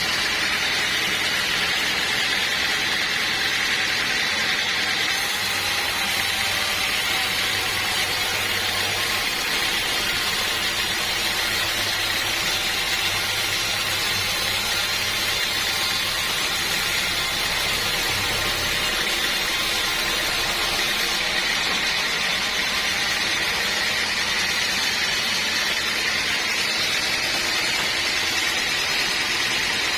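A sawmill's saw and machinery running steadily with a continuous hissing whine. A low hum joins in about five seconds in and fades out near two-thirds of the way through.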